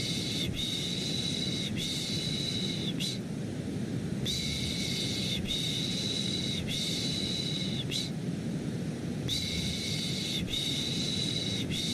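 Soothing 'shh' shushing for a baby, in sets of three long shushes that repeat about every five seconds. Under it runs a steady, deep white-noise hum.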